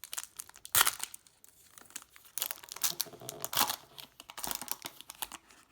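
Plastic wrapper of a football trading card pack crinkling and tearing as it is opened by hand, in irregular crackles with a sharp loud rip about a second in.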